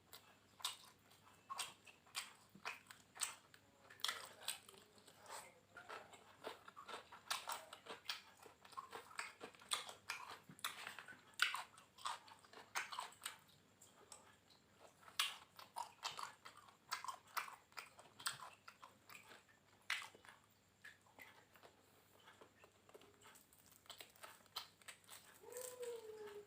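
Close mouth sounds of eating a fried catfish meal: crisp crunching and wet chewing in quick irregular clicks, easing off briefly before picking up again. Near the end there is a short wavering pitched whine.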